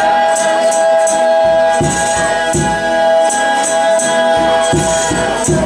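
Folia de reis music: a long held chord, with tambourine jingles and low drum beats recurring about every second.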